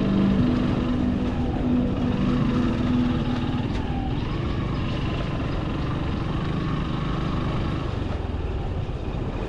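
Motorbike engine running steadily under way on a hill road, with road and wind noise.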